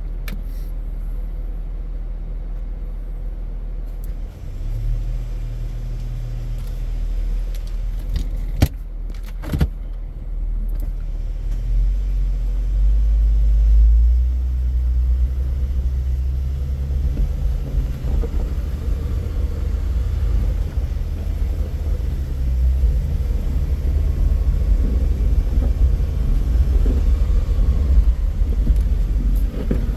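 Off-road vehicle engine running with a low rumble, its pitch stepping up a few seconds in and swelling again about halfway, while rigging a winch line and strap for a trail recovery. Two sharp knocks sound about nine and ten seconds in.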